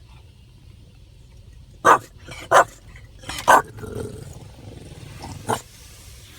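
Pet dog barking: four short, sharp barks spread over a few seconds, over a low steady rumble.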